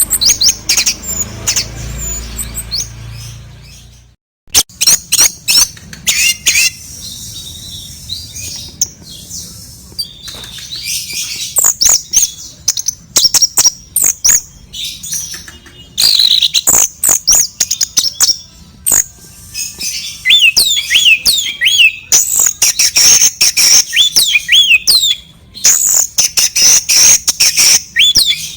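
Sooty-headed bulbul (kutilang) giving rapid chirps and harsh calls, denser in the second half, among many sharp clicks and knocks.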